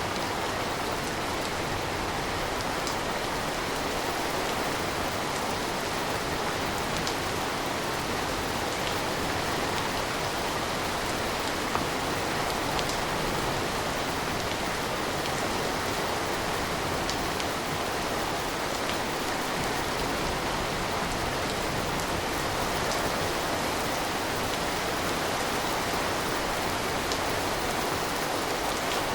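Steady rain falling, a continuous even hiss with scattered single drops ticking sharply now and then.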